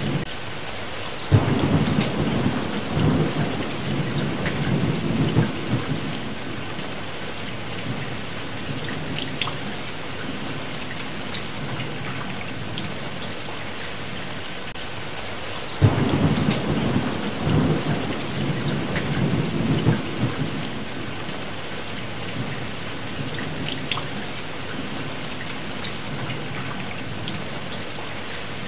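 Steady heavy rain with two rolls of thunder. Each roll starts suddenly, one about a second in and one just past the middle, and rumbles away over several seconds.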